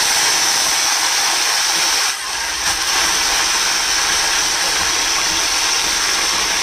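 Ginger-garlic paste and chopped onions sizzling in hot oil in a pan as they are stirred with a wooden spatula: a steady, loud hiss that dips briefly about two seconds in.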